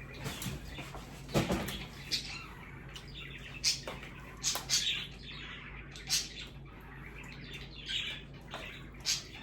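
Eating sounds: short, sharp clicks and smacks of chewing and utensils against takeout containers, with birds chirping in the background and a steady low hum.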